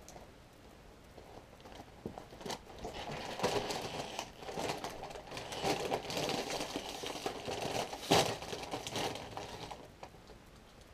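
Plastic chip bag crinkling as a hand rummages in it for chips, in uneven spells starting about two seconds in.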